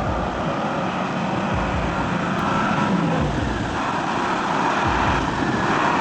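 Motor vehicle running: a steady engine and road noise with a faint hum and repeated low rumbles.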